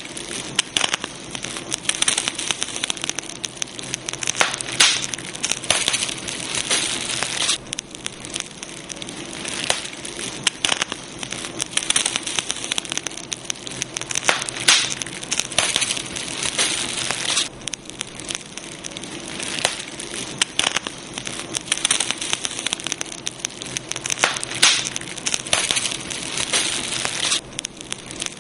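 Campfire crackling: a dense stream of sharp pops and snaps from burning wood over a steady hiss, swelling louder and easing off every few seconds.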